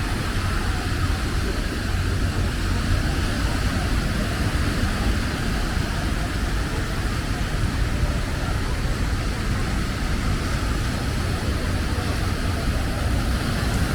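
Steady wind rumbling on a small camera microphone over the continuous wash of beach surf.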